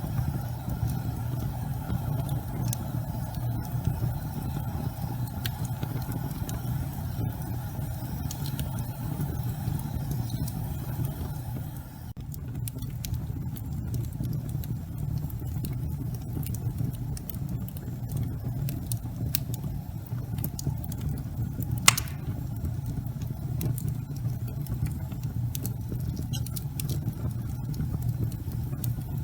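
Wood fire burning in a fireplace: a steady low rumble of flames with scattered small crackles and one louder pop about 22 seconds in.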